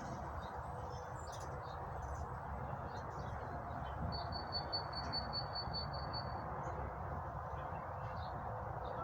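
A bird sings a fast trill of evenly repeated high notes, about five a second, for roughly two seconds in the middle, over a steady background noise.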